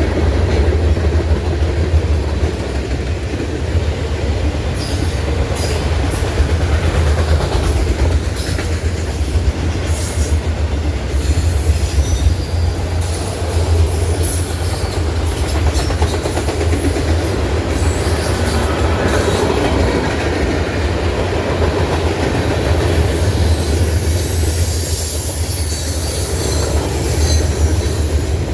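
Train cars rolling past with steady wheel rumble and clatter on the rails. High wheel squeal comes in a few seconds in and again near the end.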